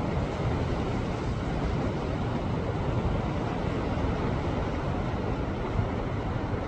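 Sea waves surging and washing against a rocky shore, a steady rushing wash with a deep low rumble.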